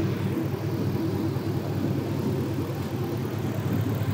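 Chevrolet 5.3-litre LS V8 engine running steadily with no exhaust system, blowing straight out of open exhaust manifolds with no mufflers or catalytic converters.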